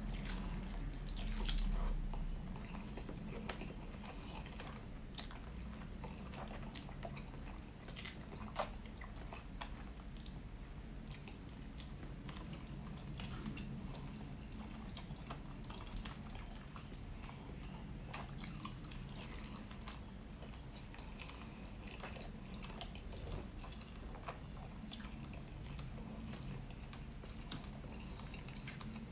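Close-miked chewing of rotisserie chicken: wet mouth smacks and small clicks as the meat is bitten and chewed, with a dull low bump about two seconds in.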